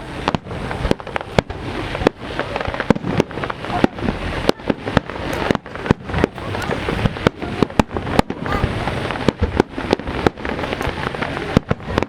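Fireworks finale: a dense barrage of aerial shell bursts, several sharp bangs a second over a continuous din of explosions.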